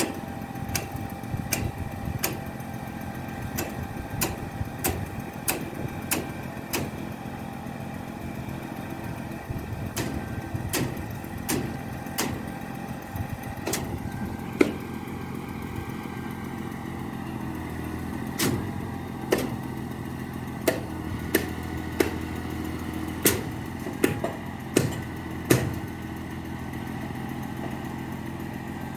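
Concrete pump truck's diesel engine running steadily, with sharp knocks at uneven intervals over it: about one or two a second at first, further apart in the second half.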